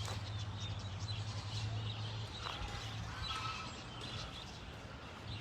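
Faint scattered bird chirps over a steady low hum.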